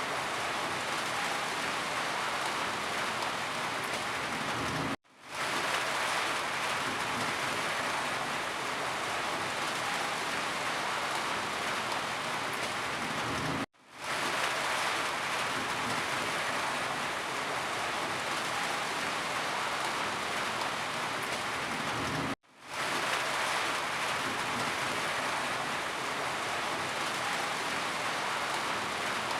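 Steady rain falling: a dense, even patter with no tones in it. The sound cuts out almost to silence three times, about every eight and a half seconds, and fades back in within about half a second each time.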